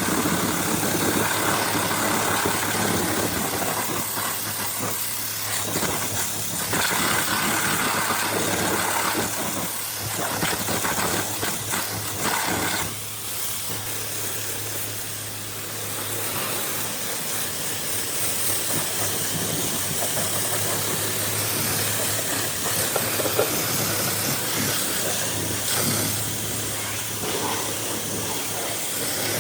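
Pressure washer spraying water in a steady hiss, with the washer's motor humming underneath; the spray eases off briefly a few times.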